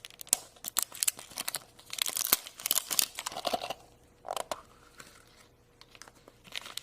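A surprise egg's wrapper being unwrapped: irregular crinkling and tearing with scattered sharp clicks.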